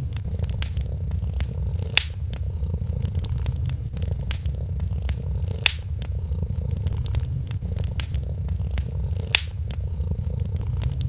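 A cat purring steadily in a low, pulsing rumble, with a wood fire crackling over it in scattered small clicks and three louder pops.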